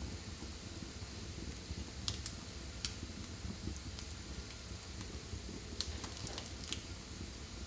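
Wood fire burning in a fireplace: a steady low rumble of flames with scattered sharp crackles and pops, a few of them bunched together about six seconds in.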